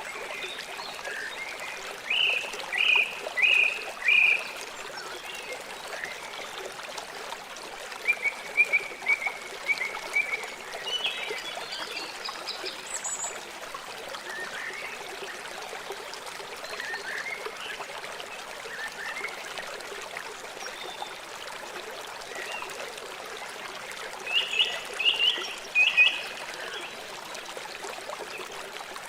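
A river flowing steadily, with small animals making short, repeated calls over it, in runs about two to four seconds in, around eight to ten seconds, and again near the end.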